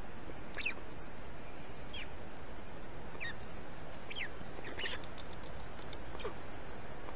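Short, high bird calls falling in pitch, about six of them a second or so apart, over a steady background hiss.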